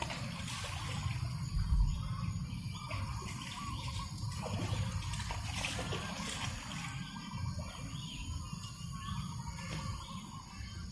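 Breeze rumbling on the microphone, with small birds chirping now and then.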